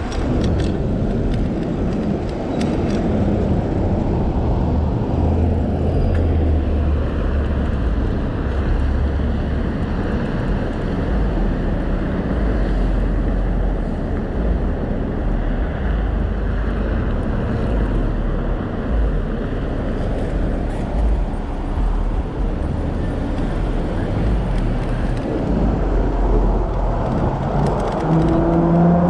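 Wind rumbling on the microphone of an e-bike, mixed with road and traffic noise. A faint steady high whine runs through the middle stretch, and a brief pitched sound comes near the end.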